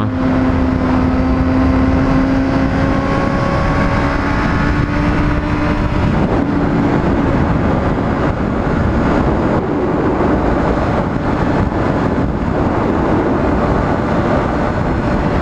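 Honda CBR600RR's inline-four engine running while riding, its pitch rising slowly over the first six seconds. After that it is mostly covered by a dense, steady rushing noise.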